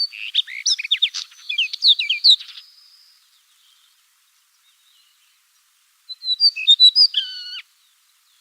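Common redstart singing: two short, high-pitched song phrases of quick varied notes, the first lasting about two and a half seconds and the second starting about six seconds in, with a pause between.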